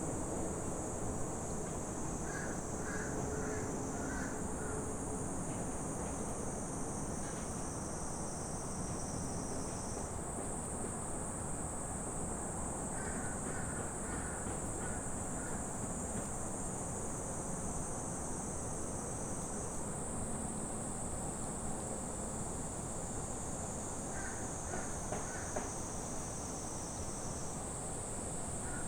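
Forest ambience: a steady high-pitched insect drone, with a bird calling in short runs of several notes three times.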